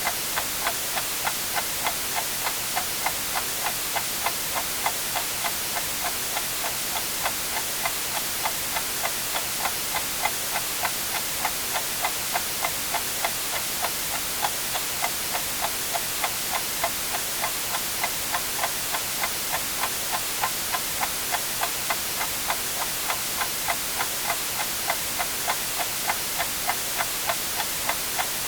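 A clock ticking steadily with evenly spaced ticks, mixed with continuous white noise, a steady hiss.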